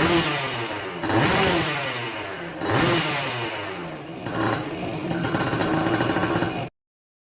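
Yamaha F1ZR's two-stroke single revving through an under-belly racing expansion-chamber exhaust. The throttle is blipped four times, each rev rising and falling back. It then holds a steadier higher rev until the sound cuts off suddenly near the end.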